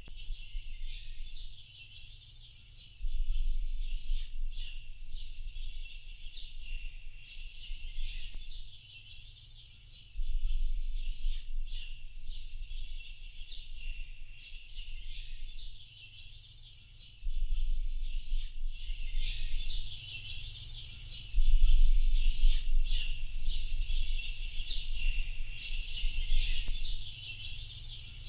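A chorus of small birds chirping, with many overlapping short, high calls running steadily. Under it a low rumble comes and goes in stretches of a few seconds and is the loudest part when it is there.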